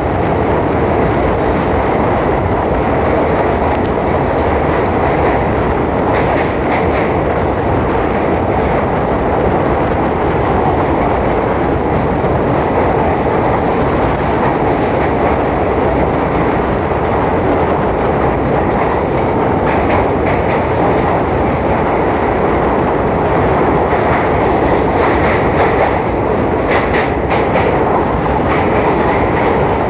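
Passenger train running at speed, a steady rumble of the carriage with occasional wheel clatter on the rails.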